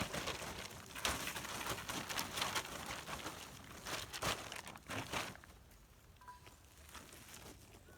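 Rustling and crinkling in a run of uneven bursts, as of something being handled, easing off about five seconds in.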